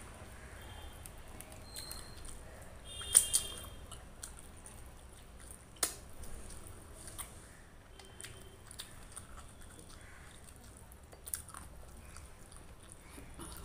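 Close-up eating sounds of rice and chicken curry eaten by hand: wet chewing and mouth smacking, with scattered sharp clicks and taps. The loudest is a clink about three seconds in with a brief ring, and another sharp click comes near six seconds in.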